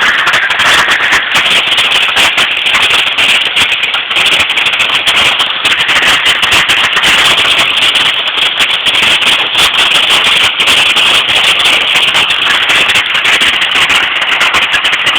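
Hail pelting down hard: a loud, continuous dense clatter of countless small impacts.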